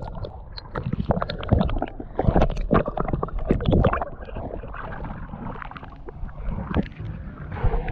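Water sloshing and splashing against the hull of a small boat, in short irregular splashes over a steady low rumble.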